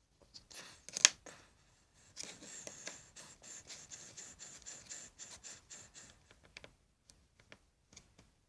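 Handling noise from toys being moved about on a surface: scratching and rubbing with many small clicks, and one sharp click about a second in.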